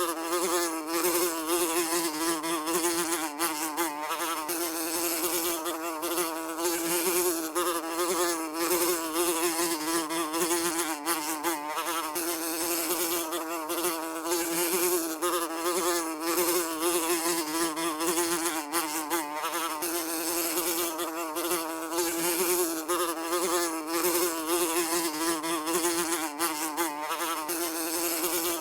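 Housefly buzzing continuously in flight, a steady droning hum whose pitch wavers slightly as the fly moves.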